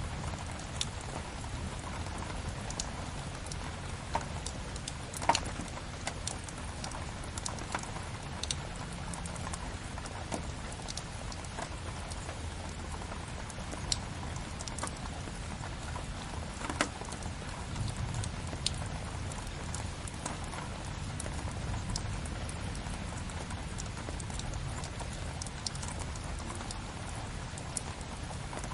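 Steady rain with a low rumble, over which a wood fire crackles with scattered sharp pops, the loudest about five seconds in.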